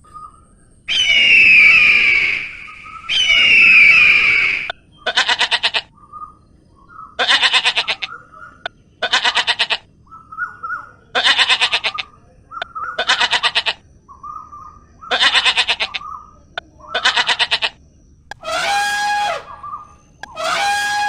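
A series of animal calls: two long, harsh screeching calls, then about seven short quavering calls spaced a second or two apart, and near the end longer calls held at a steady pitch.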